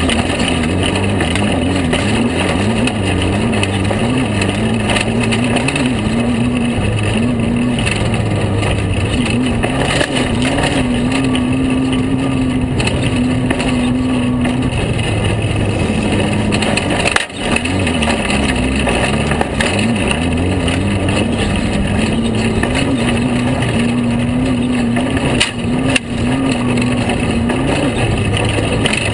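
Air-cooled VW flat-four engine of a Class 5 Unlimited Baja Bug running hard at race speed, its pitch wavering up and down as the throttle works over rough desert ground, over a constant rush of noise. The engine note cuts out for a moment about two-thirds of the way through, then picks straight back up.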